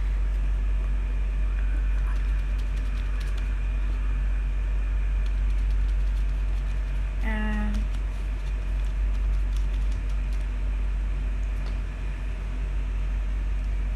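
A steady low background hum with faint scattered clicks, and a brief voice sound about seven seconds in.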